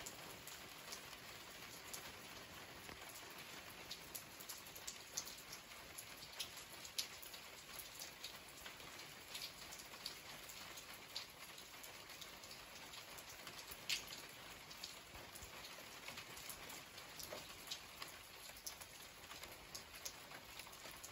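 Faint, steady rain falling on a wet paved terrace and tiled roof, dotted with many sharper individual drops; one drop lands louder about two-thirds of the way through.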